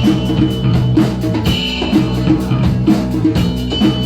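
A rock band playing the instrumental intro of a song live, with a drum kit keeping a steady beat under sustained guitar chords.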